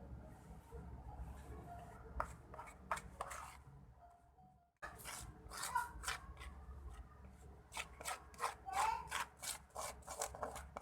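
Kitchen handling noises: a run of short scrapes and taps from utensils and ingredients being worked by hand, cutting out briefly a little before halfway and growing busier and louder in the second half.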